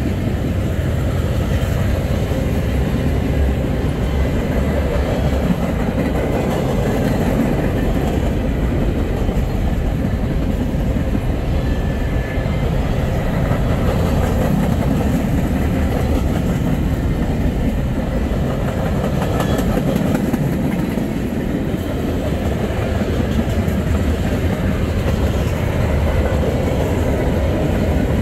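Freight train cars rolling past at speed, wheels clattering over the rail joints in a steady, continuous rumble.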